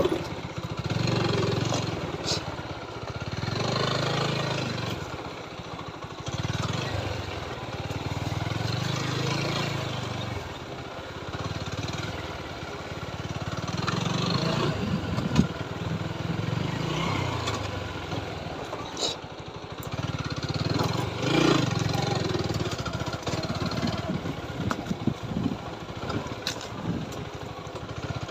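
TVS Apache 4V motorcycle's single-cylinder engine running while riding, the revs rising and falling every two to three seconds, with scattered sharp knocks.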